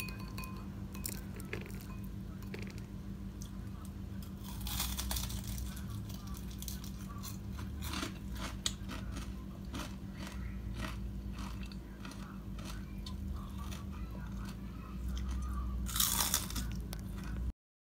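Crispy deep-fried salmon skin being bitten and chewed: irregular crackling crunches, with louder bursts of crunching twice, over a steady low hum. The sound cuts off suddenly near the end.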